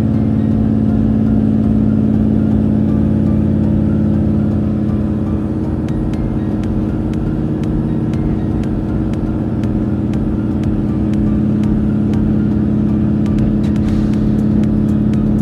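JR Hokkaido H100 diesel-electric railcar under way, its diesel engine running steadily as heard inside the car, easing slightly in the middle and picking up again near the end, with faint clicks in the second half.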